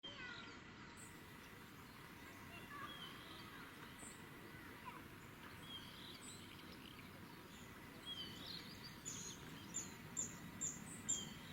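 Small birds calling faintly over quiet outdoor background noise, with scattered chirps and, near the end, a quick run of about five short high notes.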